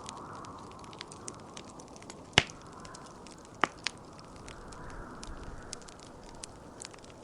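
Wood fire crackling in a fireplace, a steady scatter of small snaps with one loud pop about two and a half seconds in and two sharper pops shortly after, over a soft rushing wind that swells and fades.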